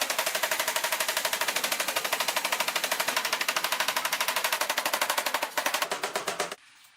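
Power hammer pounding hot steel with rapid, evenly spaced blows, with a brief break near the end before it stops suddenly.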